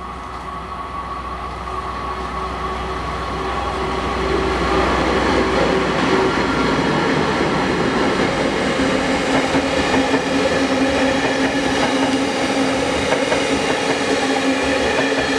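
A JR DE11 diesel locomotive approaches and passes close by, its engine rumbling deep as it tows a rake of unpowered new Aoi Mori 703 series electric cars. The sound grows louder over the first few seconds. From about seven seconds in the engine rumble drops away, leaving the towed cars' wheels rolling over the rails, loud and steady with a humming ring.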